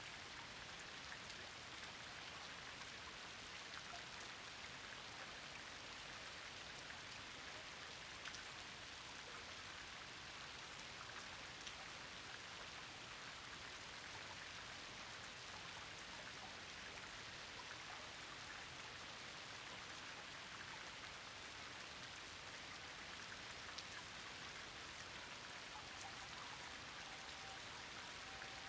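Steady rain falling, an even hiss with scattered individual drops ticking sharply.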